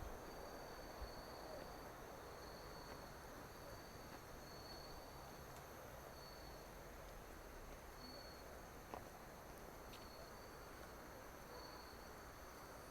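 Faint chorus of crickets, a steady high trill with a pulsing chirp beneath it, over a low outdoor hiss.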